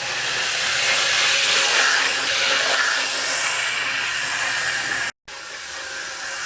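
Athearn second-generation model diesel locomotive with brass flywheels running along the track: a steady, hissing whir of motor, gears and wheels on rail that swells through the middle and breaks off for an instant about five seconds in.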